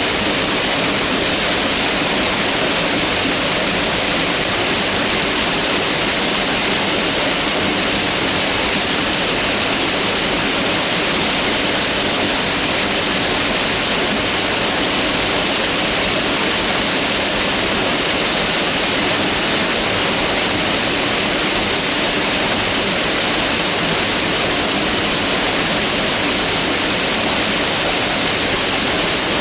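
Mountain river rushing over rocks, a steady, unbroken roar of white water.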